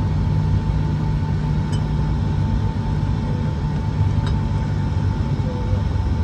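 Steady low hum of the air-conditioning system in a parked Boeing 757-200's passenger cabin, with a faint steady whine and a couple of light clicks.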